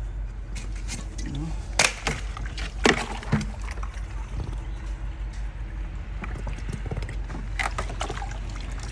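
Rinseless wash concentrate being sloshed and poured from its plastic bottle into a wash bucket, with a few sharp knocks of plastic against plastic, over a steady low hum.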